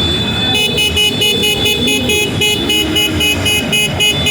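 Rapid, even electronic beeping of an alarm, about four beeps a second, starting about half a second in over a low rumble.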